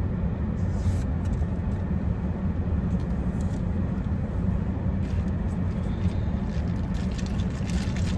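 Steady low hum of a car idling, heard from inside the cabin. In the second half, light clicks of ice knocking in a plastic cup as a straw is worked through the iced coffee.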